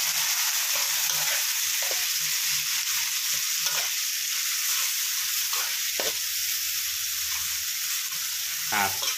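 Red curry paste frying in oil in a wok over low heat: a steady sizzle, with a metal spatula stirring and scraping it against the pan at irregular moments.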